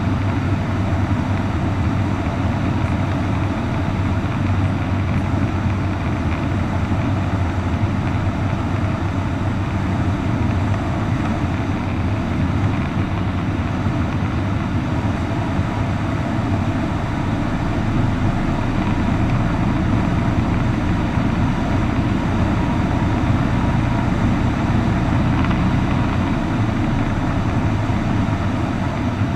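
Cessna 152's four-cylinder Lycoming O-235 engine and propeller droning steadily in flight, with no change in pitch or level.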